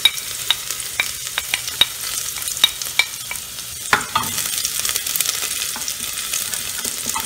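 Chopped onion and garlic sizzling in hot oil in a pressure cooker while a wooden spoon stirs them. Frequent sharp ticks and pops over the first few seconds, a knock about four seconds in, then the sizzle grows denser.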